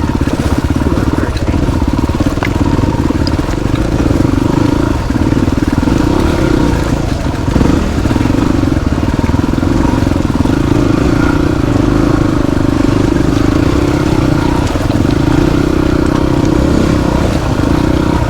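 Motorcycle engine running at a steady pace as the bike is ridden along a rough dirt road.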